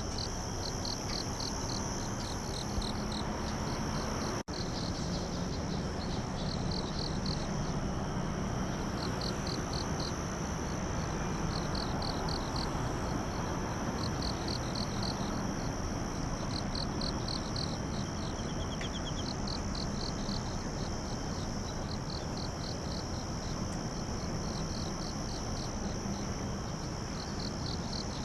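Night insect chorus of crickets: short pulsed chirps repeat about once a second over a steady high-pitched trill, with a constant hiss beneath. There is a momentary dropout about four seconds in.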